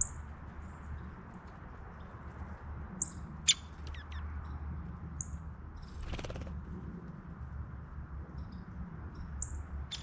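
Birds at a feeder giving short, high chirps every second or two over a steady low rumble. A sharp click comes about three and a half seconds in, and a brief rustling burst about six seconds in.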